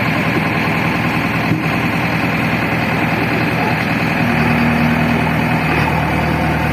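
JCB 3DX backhoe loader's diesel engine running steadily, its engine note shifting about four seconds in as the load or throttle changes.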